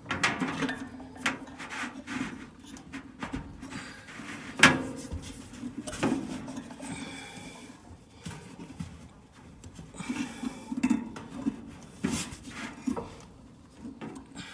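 Clatter and knocks of metal dryer parts being handled while the belt is worked onto the motor pulley and tensioner, with a sharp knock about five seconds in and a short squeak around seven seconds.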